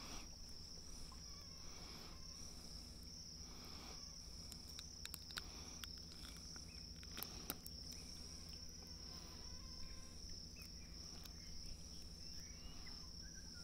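Insects keeping up a steady, high-pitched, unbroken trill, with a low steady hum underneath and a few faint clicks.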